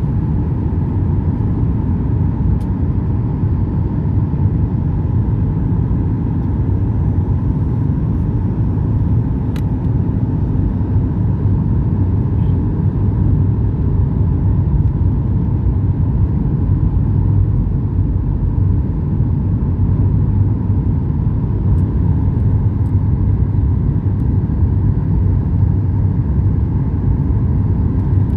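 Airliner cabin noise: a steady low rumble of jet engines and airflow, with a constant hum under it.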